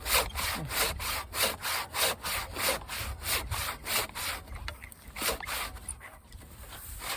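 Husky 20-inch fine-tooth hand saw cutting through a dried tree trunk, the teeth rasping through the wood in quick, even strokes of about four a second. After about five seconds the strokes become fewer and fainter.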